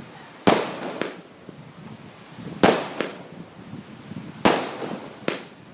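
Fireworks going off in a run of shots: three loud bangs about two seconds apart, each followed within a second by a smaller bang.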